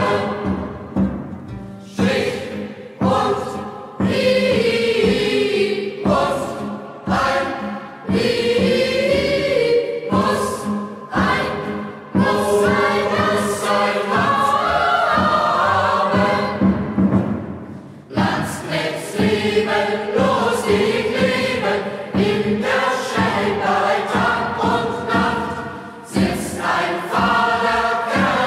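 A youth choir singing a German Landsknecht marching song together, in a steady marching rhythm with strong accents about every two seconds.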